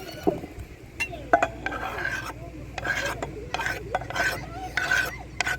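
A spoon scraping and stirring in a bowl, in a series of short strokes about once or twice a second.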